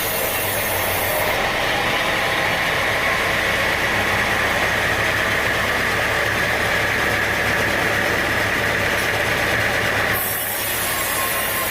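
Sawmill saw running steadily, with a strong high whine over its motor noise. About a second in the highest hiss falls away, and near the end the sound dips briefly before the hiss returns.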